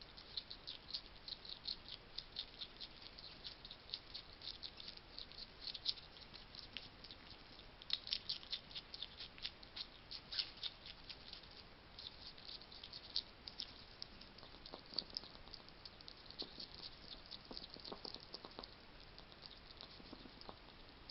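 A hedgehog eating dry food: a fast, uneven run of small crunching clicks, with a few duller knocks in the second half.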